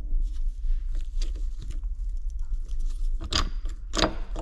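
Light clinks and knocks of tools and metal engine parts being handled on a workbench, with two louder knocks a little over half a second apart near the end, over a steady low hum.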